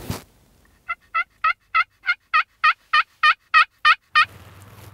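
Turkey call worked by a hunter, a run of about a dozen hen yelps at about three a second, each note with a downward hook. A low steady hum comes in near the end.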